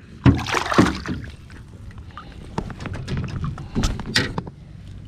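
Several sharp knocks and clatters in a jon boat, hull and gear being bumped as a fish is landed, over low background noise.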